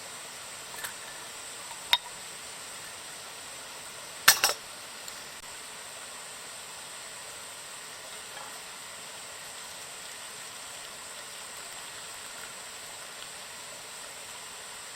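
A steady hiss with a few sharp clicks, the loudest a quick cluster about four seconds in.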